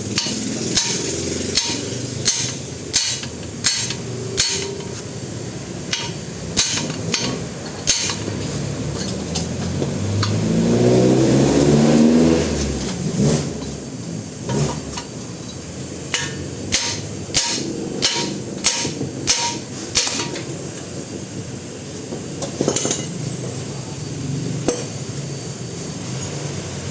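Hand hammer blows on steel, coming in bursts of sharp strikes, as the front wheel bearing and ball joint are being knocked out of the steering knuckle. Between the bursts an engine nearby revs up and falls back, rising then falling in pitch; it is the loudest sound here.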